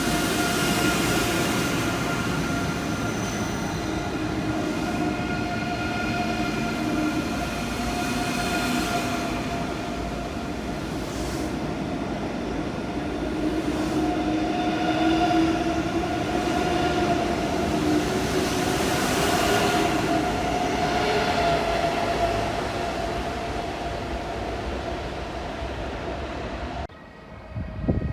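A train running through, a steady rail rumble with whining tones at several pitches that slowly shift. The sound drops off abruptly near the end.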